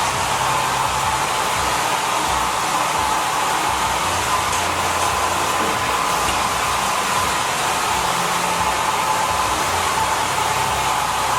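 Holistic Cure Dryer Rp. hair dryer running steadily in its Airy fast-dry mode, blowing a strong stream of air with a steady whine over the rush of air.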